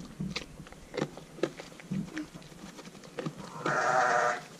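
A sheep bleats once, loudly, about three and a half seconds in, a single call lasting under a second. Light knocks and rustles come before it.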